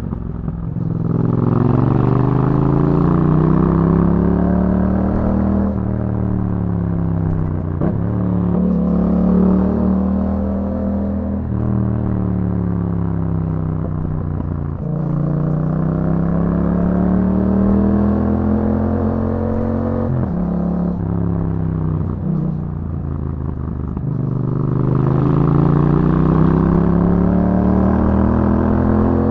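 Yamaha MT-07's parallel-twin engine through an Akrapovic exhaust, running under load while ridden. Its note climbs and falls again several times, with a few short breaks in the note along the way.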